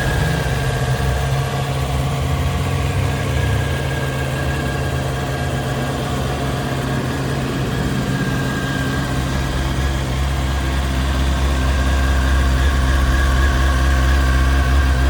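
Honda CBR900RR Fireblade's inline four-cylinder engine idling steadily, a little louder in the last few seconds.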